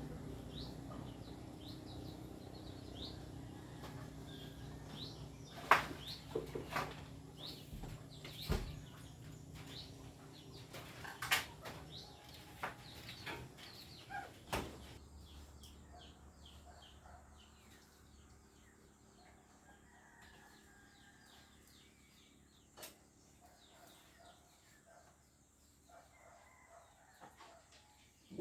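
Birds chirping repeatedly in a quiet rural backdrop, with several sharp knocks in the first half and a low steady rumble that fades out about halfway through.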